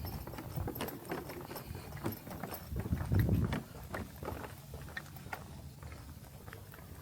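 Footsteps walking along a trail, as irregular short steps and small crunches, with a brief low rumble a few seconds in.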